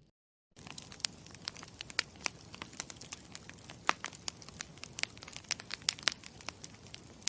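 Campfire crackling: a steady low rumble with sharp, irregular pops and snaps several times a second. It sets in abruptly about half a second in, after a moment of dead silence.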